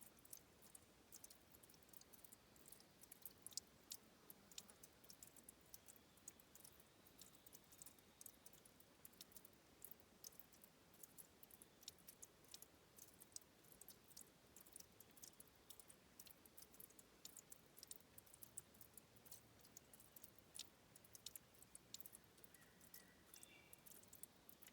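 Faint, irregular ticking drips and trickles of water at a spring where a river rises, several a second. A brief high chirp sounds near the end.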